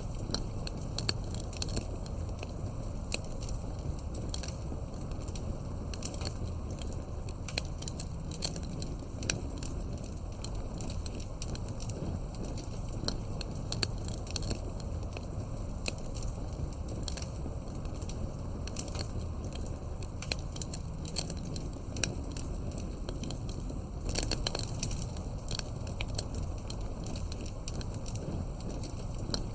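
Campfire burning, with a low, steady rumble and hiss under irregular sharp crackles and pops. The crackling gets busier about twenty-four seconds in.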